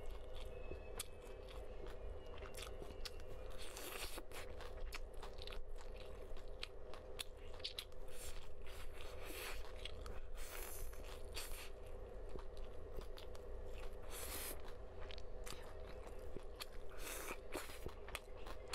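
Close-miked biting and chewing of crumb-coated fried food from a skewer: many short, crisp crunches, some louder than others, over a steady faint hum.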